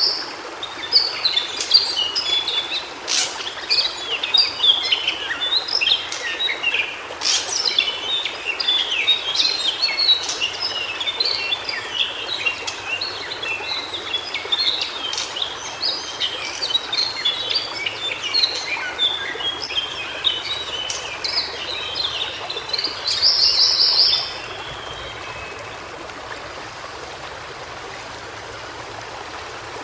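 White-browed shortwing singing a rapid, jumbled run of high notes that stops about 25 seconds in. Under and after the song runs the steady rush of a stream.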